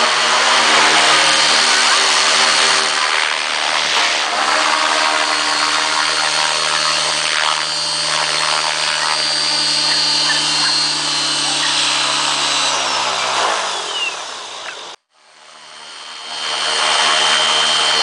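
600-size RC helicopter running with a steady high whine from its motor and rotor. Near the end the pitch falls as the rotor spools down. After an abrupt cut it starts again and grows louder.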